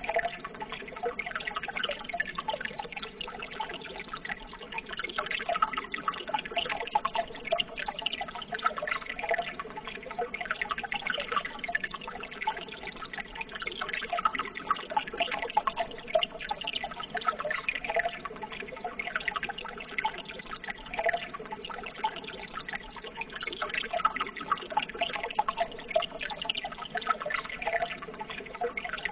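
Running water trickling and splashing steadily, a continuous babble of many small splashes.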